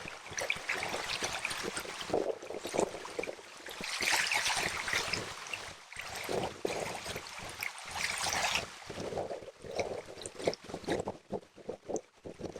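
A river running and splashing over rocks, its rushing noise swelling and easing unevenly.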